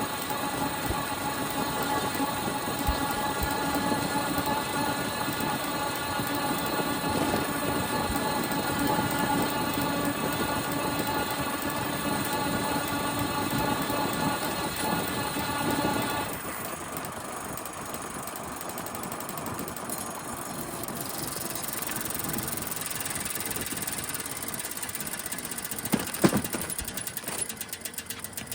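Bicycle ridden along with a steady, irritating whining squeal from the bike. The squeal stops about sixteen seconds in, leaving rolling and wind noise, and there is a sharp knock near the end.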